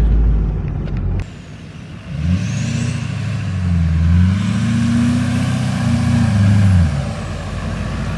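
Pickup truck engine: a loud low rumble that cuts off suddenly about a second in, then the engine revving up, dipping, revving up again and falling away near the end.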